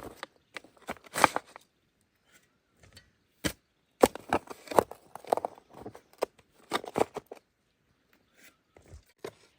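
Irregular series of short scrapes and knocks from hand work, in clusters with pauses, the densest run in the middle.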